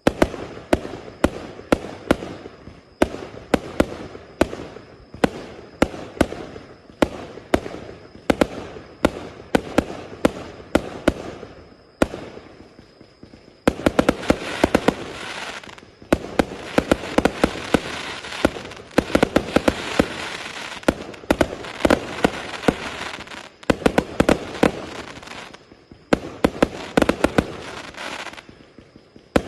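A 1000-shot, 0.8-inch multi-shot fireworks cake firing in rapid succession. It starts abruptly with sharp shots two to three a second, pauses briefly about halfway, then fires denser volleys packed with crackle.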